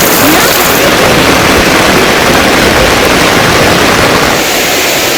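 Loud, steady hiss of heavy monsoon rain, an even rush without distinct drops or rhythm.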